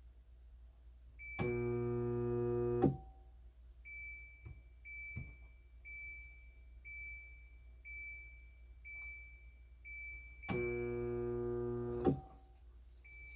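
Countertop dishwasher buzzing twice in short spells of about a second and a half. Between the buzzes a high electronic beep repeats about once a second. The machine hums but will not run its wash.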